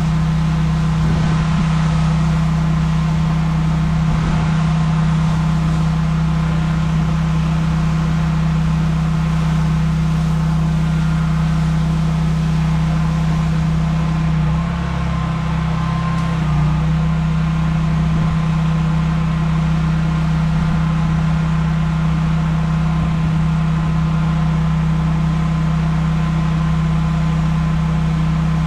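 Pressure washer's engine running steadily under load, with a brief dip in pitch about halfway through.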